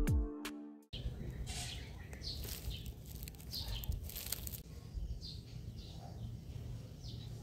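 Electronic background music that ends about a second in, then small birds chirping in repeated short falling notes over a low rumble of outdoor background noise.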